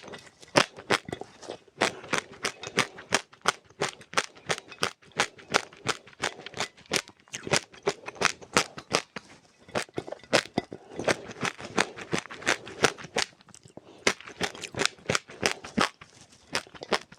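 Dry seeds being crunched and chewed close to the microphone: rapid, irregular sharp cracks, several a second, with a short lull about 14 seconds in.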